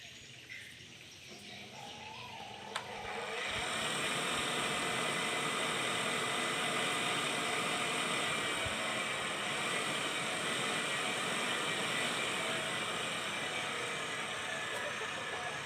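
A motor-driven machine spinning up over the first few seconds, then running steadily with a hum and a hiss.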